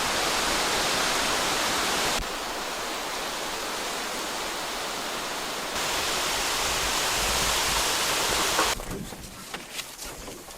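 A steady rush of fast-flowing water, loud and even. Its level jumps abruptly twice. It cuts off about nine seconds in, leaving faint rustles and clicks.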